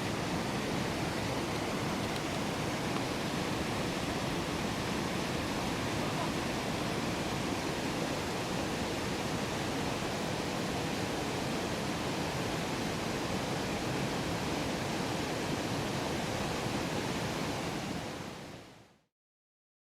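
Steady rush of flowing water, fading out near the end into silence.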